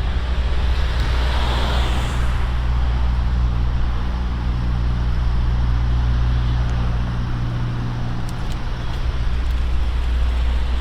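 Road traffic: a car passes with a rush about a second or two in, over a steady low engine hum and a low rumble.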